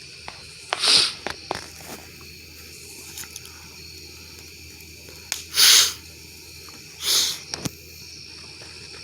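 Campfire hissing in three short bursts, with a few sharp pops and crackles, over steady cricket chirring.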